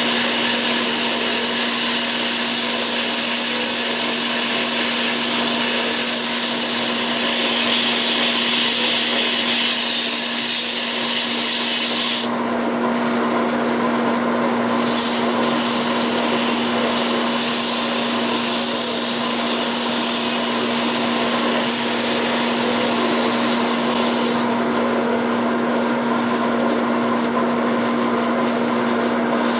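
Record Power Herald wood lathe running with a steady motor hum while the spinning walnut handle blank is worked, giving a dense scraping hiss of wood being cut or abraded. The hiss drops away for a couple of seconds about midway and again near the end, leaving the hum.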